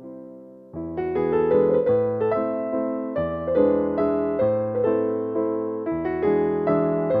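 Gentle piano music: a held chord fades away, then just under a second in a flowing phrase of many notes begins and carries on.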